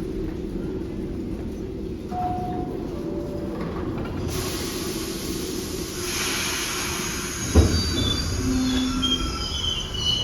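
New York City subway train in the station: a low rumble with a hiss that grows louder partway through, one sharp knock, then high wheel squeals near the end.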